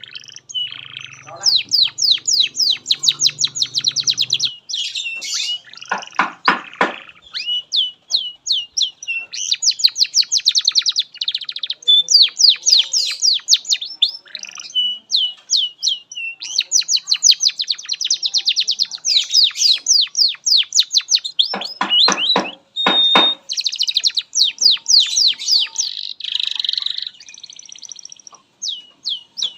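Domestic canary singing a long, unbroken song of fast trills, each a rapid run of repeated notes, changing from one trill to the next every second or two. Twice, a third of the way in and again about three-quarters through, it drops into deeper, fuller note runs.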